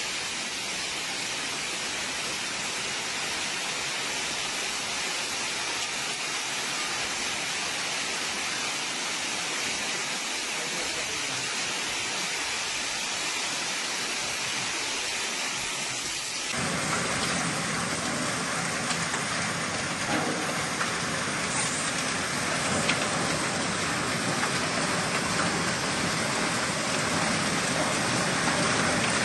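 Steady hiss of rushing water during flooding, with no tones or rhythm. About halfway through it changes abruptly to a fuller, slightly louder rush.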